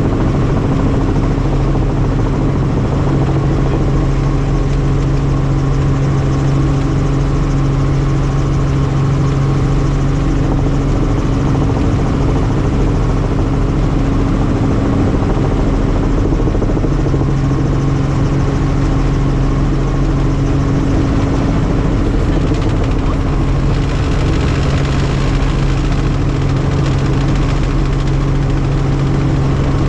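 Helicopter in flight: a steady, loud engine and rotor noise with a low hum that fades and returns twice.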